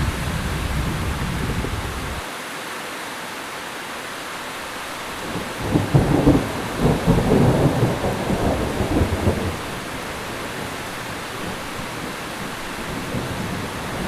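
Heavy rain falling steadily, with a low rumble of thunder dying away in the first two seconds and a longer roll of thunder from about six seconds in that lasts several seconds.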